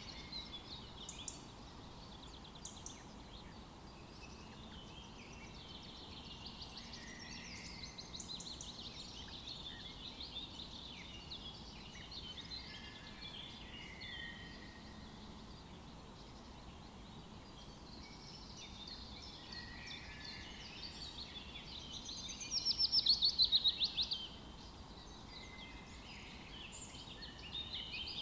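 Several small birds chirping and singing over a faint background hiss, with one louder rapid trill about three-quarters of the way through.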